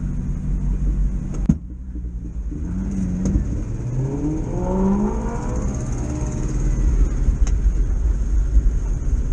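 1973 VW T2 bus's air-cooled flat-four engine under way, its carburettor freshly cleaned and running well. About a second and a half in, a click and a brief drop in the engine note, then the revs climb for a few seconds before it settles into a steady pull that grows slowly louder.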